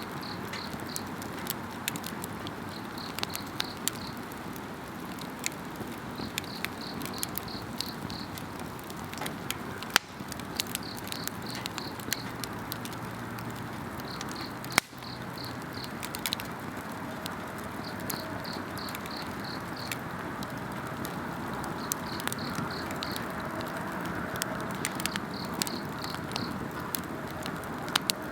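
Campfire crackling steadily with scattered sharp snaps and two louder pops, over insects calling in short pulsed trills that repeat every two to three seconds.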